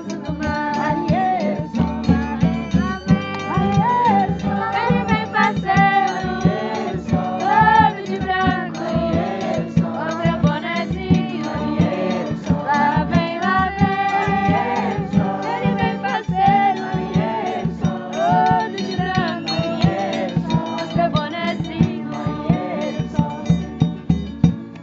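Voices singing a folk song together over a steady percussion beat.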